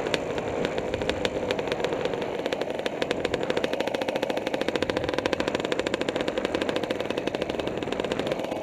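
Kawasaki KDX 220R's single-cylinder two-stroke engine running, a rapid, even stream of exhaust pops.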